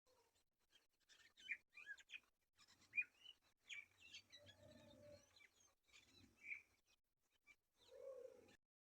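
Small birds chirping faintly: short, scattered chirps, the sharpest about three seconds in.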